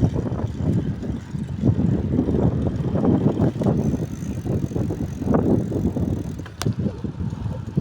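Wind buffeting the microphone of a moving rider in irregular gusts, with road noise underneath and one brief sharp click about six and a half seconds in.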